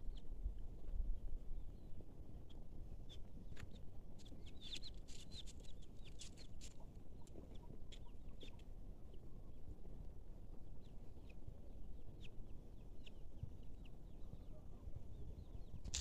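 Scattered short bird calls, thickest around the middle, over a steady low rumble.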